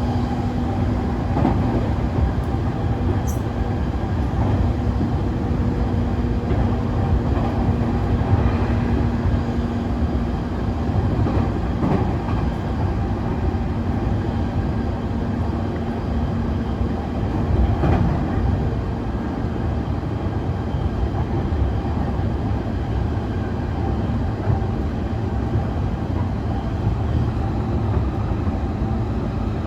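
Running noise inside an E531 series electric train: a steady low rumble of wheels on rail, with a faint steady hum in it and an occasional brief click from the rails.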